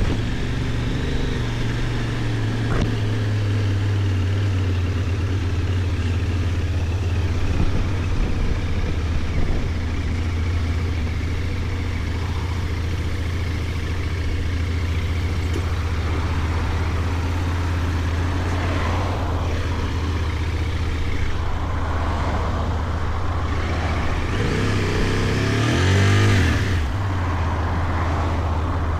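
Benelli Tornado 550's 554 cc parallel-twin engine, with its 270° crank, running steadily while the bike is ridden. The pitch rises and falls twice, about two-thirds of the way in and again near the end, as the revs change.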